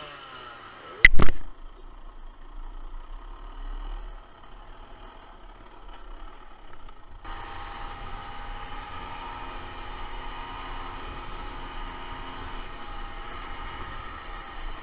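A single loud knock about a second in, then a faint low rumble; about seven seconds in a small two-stroke motorcycle engine is heard running steadily.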